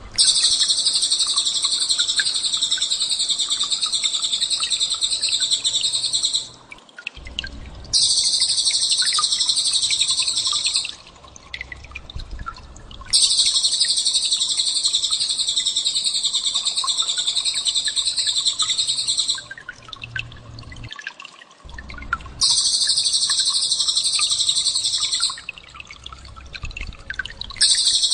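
Recorded songbird song played as a training track: a rapid, high-pitched chattering trill in long phrases of about three to six seconds, broken by short pauses, four times over.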